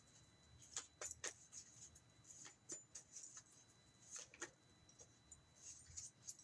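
Faint, irregular rustles and soft taps of tarot cards being handled and laid down, a few small clicks a second.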